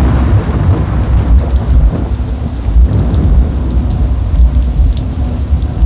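Heavy rain falling steadily, with a deep, continuous rumble of thunder underneath.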